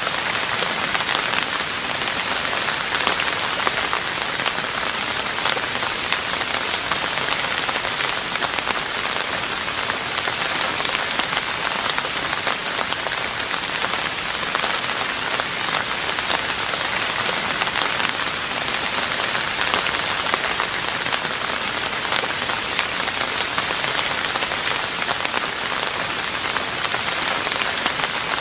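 Steady rain falling on a roof: a dense, even patter of drops that neither builds nor eases.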